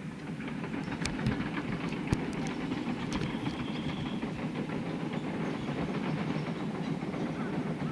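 A steady low mechanical rumble with a few sharp clicks in the first two seconds.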